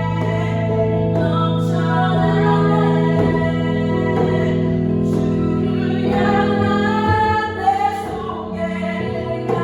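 Korean praise song sung over piano accompaniment, with sustained chords under a melodic vocal line.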